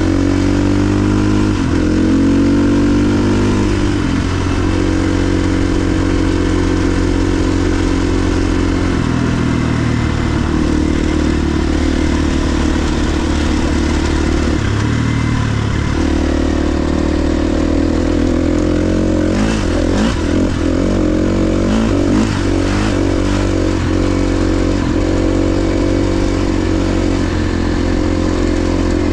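KTM XC-F 350's single-cylinder four-stroke engine running under way as the dirt bike is ridden, its pitch rising and dropping several times with the throttle. About two-thirds of the way through comes a run of knocks and rattles.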